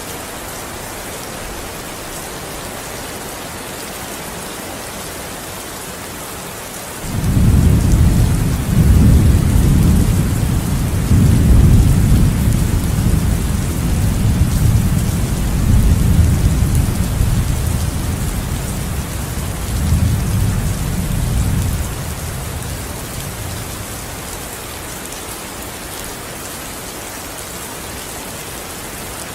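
Steady rain falling, with a long low roll of thunder that starts suddenly about a quarter of the way in, rumbles for some fifteen seconds and then fades away.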